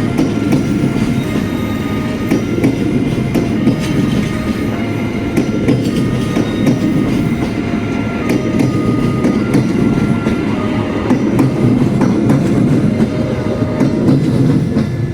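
Train passing close by: a steady rumble of wheels on the rails, with repeated clicks from the rail joints and short high tones coming and going.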